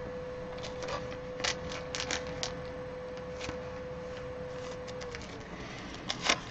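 Trading cards and plastic card holders being handled: scattered small clicks and rustles, several in the first half and a couple more near the end. A faint steady hum stops about five seconds in.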